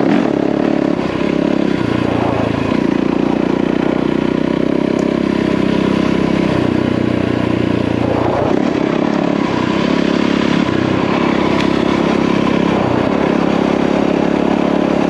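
Yamaha WR450F single-cylinder four-stroke dirt bike engine running under way on a trail. The engine note rises and falls with the throttle, changing a few times, over steady wind and tyre noise.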